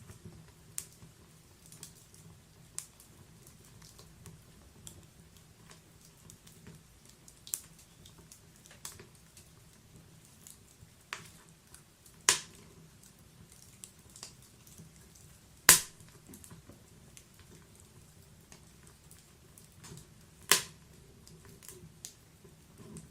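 Wood fire crackling, with scattered sharp pops and snaps over a low steady hiss, and three loud snaps about twelve, sixteen and twenty seconds in.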